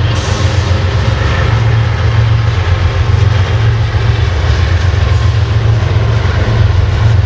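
A train passing close by: a loud, steady low rumble with a noisy hiss above it that holds without a break.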